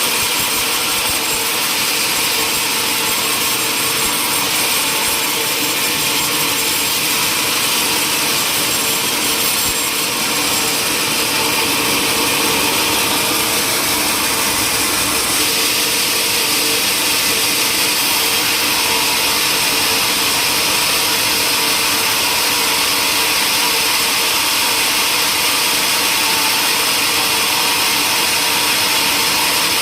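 Sawmill saw cutting through wood, running steadily without a break.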